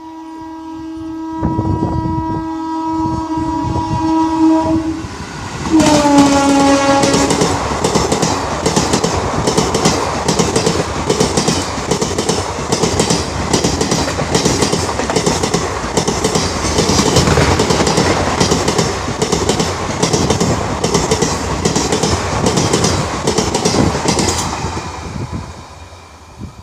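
Indian Railways train passing at speed: the locomotive's horn sounds a steady chord, then drops in pitch as the engine goes by about six seconds in. It is followed by the coaches clattering over the rail joints in rapid clicks, which fade out near the end.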